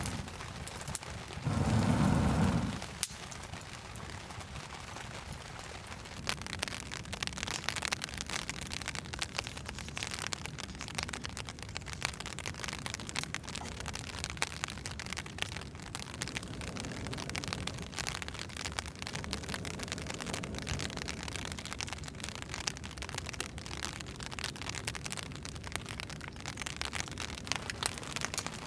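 Steady rain, a dense hiss full of fine drop ticks. About two seconds in, a single loud low burst lasting about a second stands out over it.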